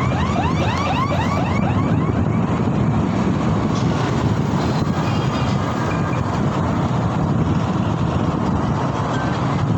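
Steady wind and road noise from riding a Mober S10 in traffic, with a quick run of short falling chirps in the first two seconds.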